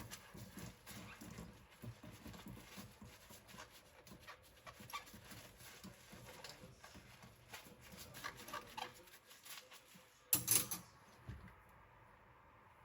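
Bowls and dishes being handled and rinsed at a kitchen sink: scattered light clinks and knocks, with a louder clatter about ten seconds in.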